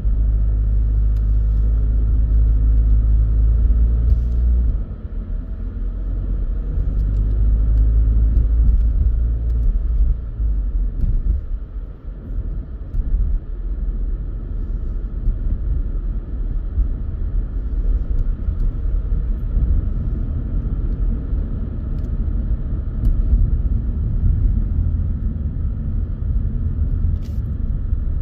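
A car driving, its road and engine noise a steady deep rumble that eases off about five seconds in and dips briefly near the middle.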